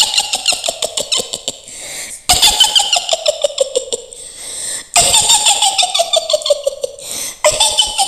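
Mak Lampir's witch cackle: a rapid, high "hihihi" laugh that falls steadily in pitch. It comes again and again, each cackle about two and a half seconds long.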